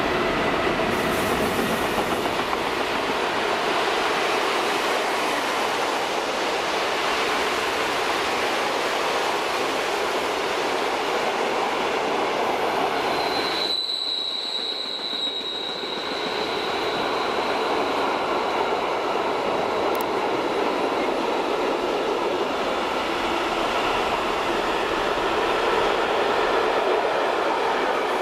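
Electric-hauled container freight train passing close by: the locomotive goes past first, then a long run of loaded container wagons rolls by with a steady rumble and clatter of wheels on the rails. About halfway through, a wheel sets up a high squeal that fades away over several seconds.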